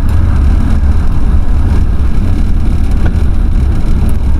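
Ford F-350 pickup driving, heard from inside the cab: a steady, loud low rumble of engine and road noise.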